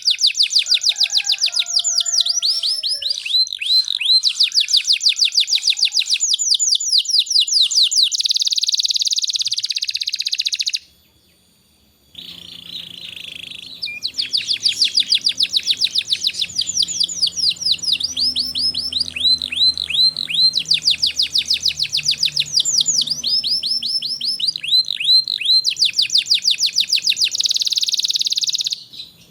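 Domestic canary singing a long, loud song of rapid trills and buzzy rolls. It breaks off for about a second a third of the way through, then starts again.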